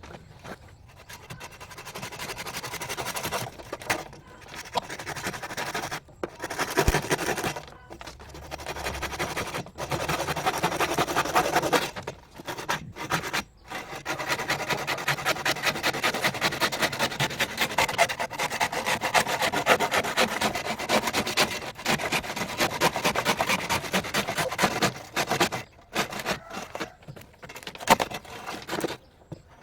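Fast, repeated rasping strokes of something being scraped or rubbed, running steadily with a few short pauses.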